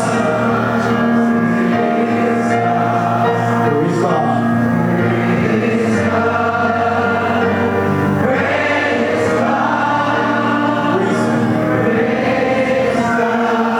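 Gospel music with a choir singing over a sustained accompaniment.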